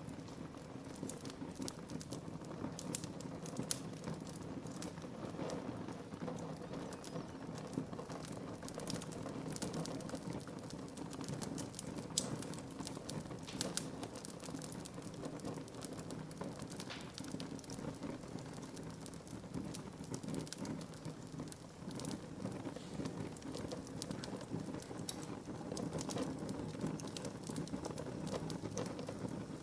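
Wood fire burning, with a steady low rumble of flame under a constant scatter of sharp crackles and pops from the burning wood.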